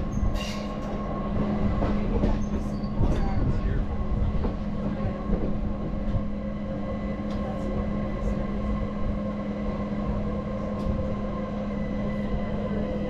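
Passenger train running along its rails: a steady low rumble with a constant hum, and a few light knocks in the first few seconds.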